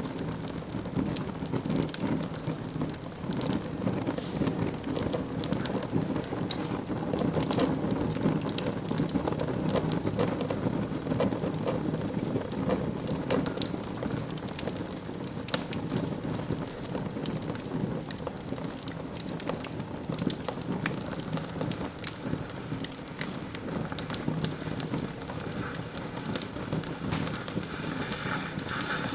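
Wood fire burning in a fireplace: a steady low rushing of flames, with frequent small crackles and pops from the burning wood and one louder pop about six and a half seconds in.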